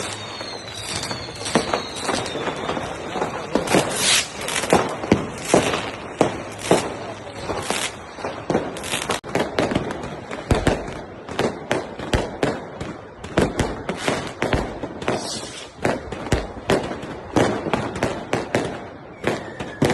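New Year's Eve fireworks and firecrackers going off: a dense, irregular run of bangs and crackles, several a second. Whistling rockets fall in pitch during the first two seconds.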